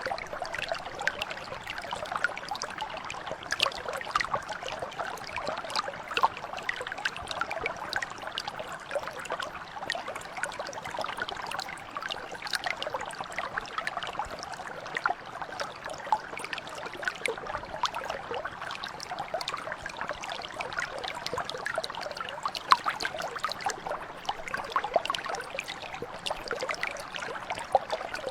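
Mountain brook flowing steadily: a continuous babble of running water with many small splashes and trickles.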